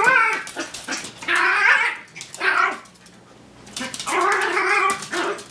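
A tiny dog growling and vocalizing in a cat-like, yowling voice, in about four separate bursts.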